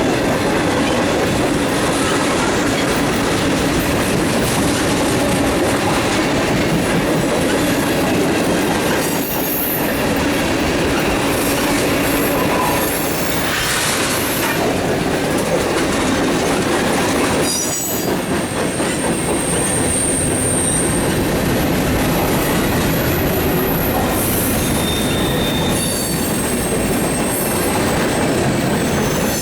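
Freight cars of a mixed freight train rolling past close by: a steady, loud rumble and clatter of steel wheels on rail, with brief high wheel squeals, the clearest about two-thirds of the way through.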